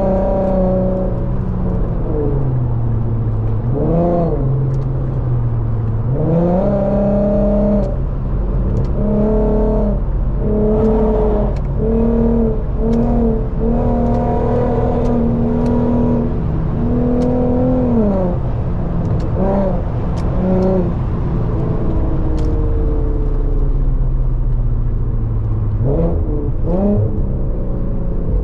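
Infiniti Q50's VQ V6 engine accelerating hard on the highway, its note climbing and dropping again and again as the automatic shifts, over steady road rumble.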